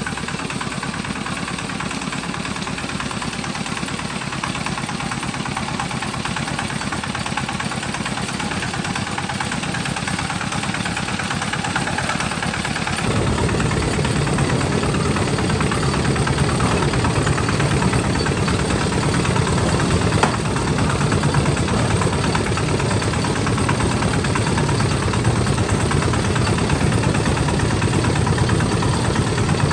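Homemade farm tractor's engine running steadily with a fast, even pulse. It grows louder, and about halfway through it takes on a much heavier low rumble that holds to the end.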